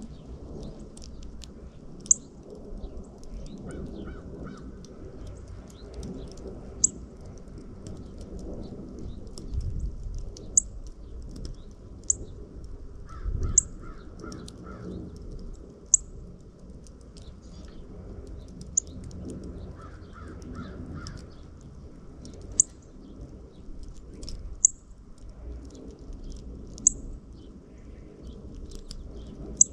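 Backyard birds calling: sharp, very high chip notes every second or two, with short runs of harsher, rapid calls a few times, over a steady low rumble of wind.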